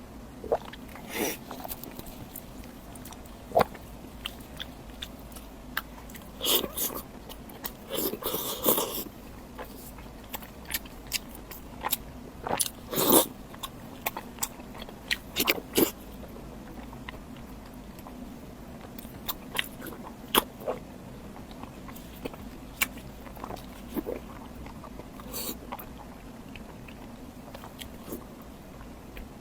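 Close-miked eating: irregular bites and chewing with wet mouth clicks and smacks. The sounds come in scattered clusters, busiest in the first half.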